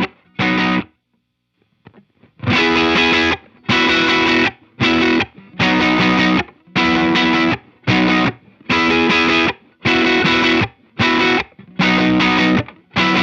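Electric guitar played through a JHS Kilt overdrive pedal with all gain toggles down, into a Walrus Audio ACS1 amp simulator: mildly overdriven chords in a choppy, staccato riff. The riff stops about a second in and starts again a little over a second later.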